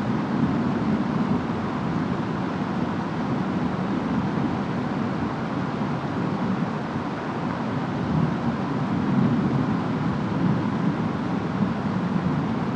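Steady rainstorm ambience: rain and wind making a dense, even rush that is heaviest in the low range and swells a little after the middle.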